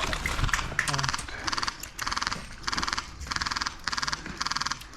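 Airsoft gun firing a string of short full-auto bursts, each a rapid rattle of shots under half a second long, about seven bursts with brief gaps between them.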